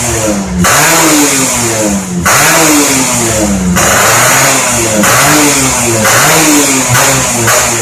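Yamaha F1ZR's two-stroke single-cylinder engine revved in repeated throttle blips through an aftermarket RS1 exhaust, about six times, the pitch jumping up and then falling away after each blip.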